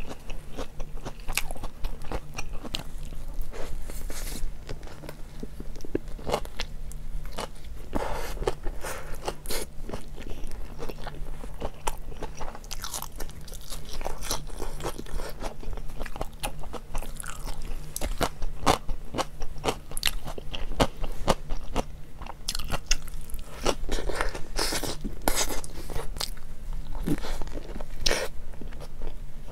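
Close-miked biting and chewing of a hot dog: a steady run of wet crunching mouth clicks, with a few louder bites near the end, over a faint steady low hum.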